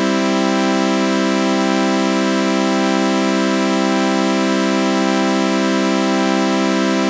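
Synthesized sawtooth-wave chord with a flanger effect, held steady without a break; it has a buzzy, organ-like tone.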